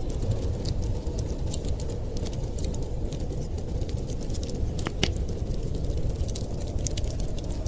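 Fireplace crackling, with scattered sharp snaps and one louder pop about five seconds in, over a steady low rush of wind.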